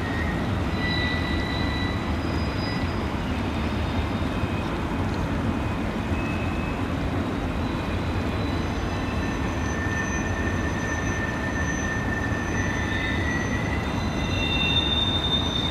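Canadian Pacific freight train rolling across a distant bridge, its wheels giving thin, high squeals that come and go and get stronger near the end, over the steady rush of a fast creek close by.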